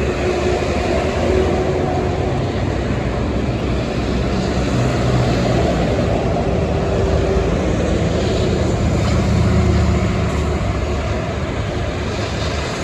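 Heavy highway traffic: a steady rush of tyres and diesel engine rumble as trucks pass, swelling briefly near the end.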